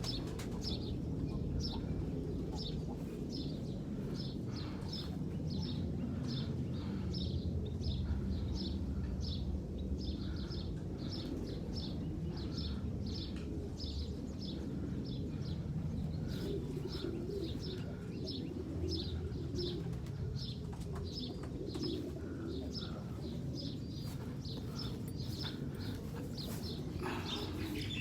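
Pigeons cooing at the loft while a bird chirps steadily, about two short high chirps a second, over a low steady rumble.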